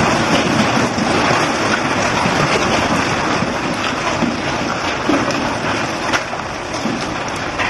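Hailstorm: a dense, steady hiss of hail and rain pelting down, with a few sharper knocks of hailstones striking a hard surface.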